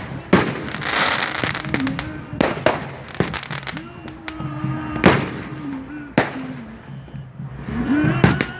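Fireworks going off: a string of sharp bangs every second or so, with a spell of crackling about a second in, over music and voices.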